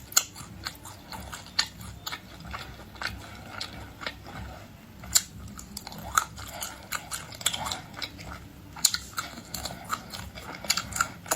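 Close-miked chewing and biting of crispy-skinned air-fried pork, with irregular crunches and small wet mouth clicks.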